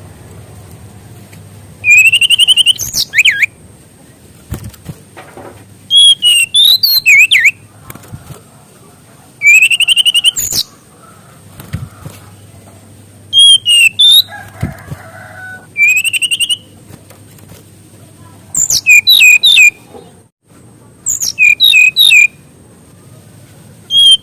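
An SRDC (sikatan rimba dada coklat) flycatcher singing loud phrases of quick, high whistled notes and trills, each about a second long, repeated every two to four seconds. This is the 'full isian' song, packed with phrases copied from other birds, played as a master recording for training young birds. A faint hum lies underneath.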